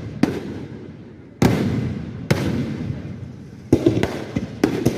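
Fireworks going off in quick succession: about half a dozen sharp bangs, each trailing off into a second or so of crackling, with several landing close together near the end.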